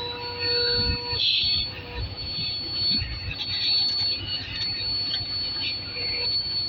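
Compressed air escaping from a leak in a truck's air brake lines, at the junction feeding the rear brake chambers: a steady high whistle with hiss. Lower whistling tones under it cut off about a second in.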